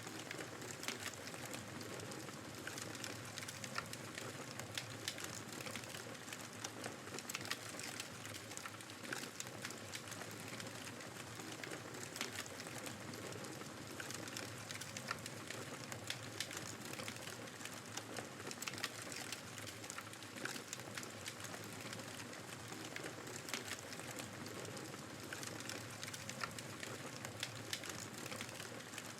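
Wood fire crackling with frequent small pops and clicks over a steady rush of snowstorm wind.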